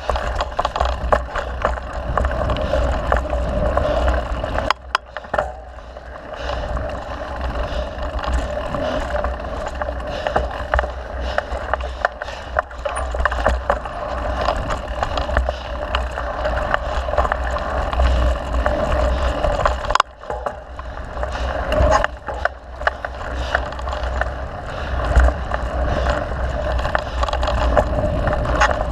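Mountain bike riding on a trail: tyre noise with dense clicking and rattling over the bumps, and a steady low rumble of wind on the microphone. It eases briefly twice, about five seconds in and again near twenty seconds.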